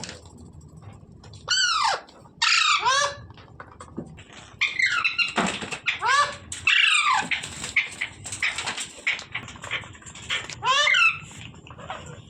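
Rose-ringed parakeet (green ringneck parrot) calling: about seven loud, harsh calls, each bending down in pitch, with quieter chattering and clicking between them.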